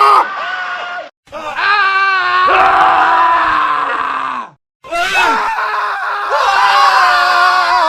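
Men screaming, one short scream clip cut straight into the next: several sustained, pitched screams with two brief silent gaps between clips, about a second in and about four and a half seconds in. One scream wavers quickly in pitch about two seconds in.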